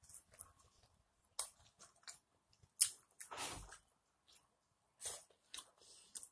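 Close-up chewing and biting of grilled steak: a string of short wet clicks and smacks from the mouth, with a sharp click and a longer louder brush of noise about three seconds in.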